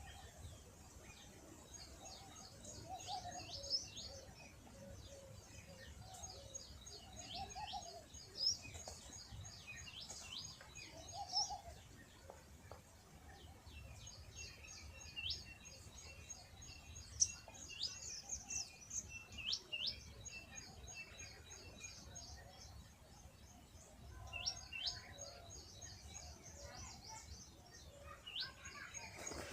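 Small birds chirping and twittering in quick, high-pitched trills, with a few lower calls in the first twelve seconds or so.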